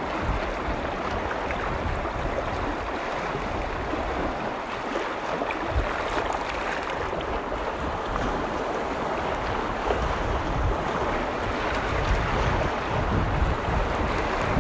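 Lake waves washing steadily against the shore. Gusts of wind rumble on the microphone now and then, most strongly near the start and in the last few seconds.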